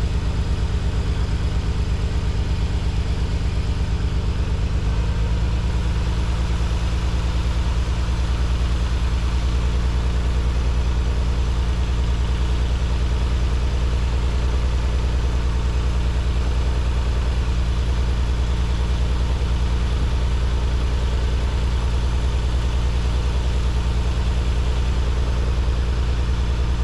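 Nissan 300ZX's VG30 V6 engine idling steadily after a spark plug change, its note shifting slightly about five seconds in. A little stumble is still there in the idle.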